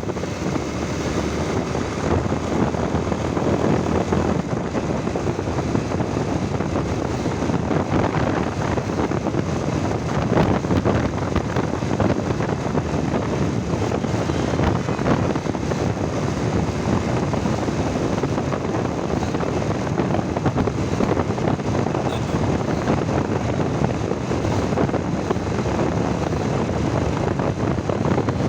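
Motorcycle running steadily while being ridden, with wind rushing over the microphone.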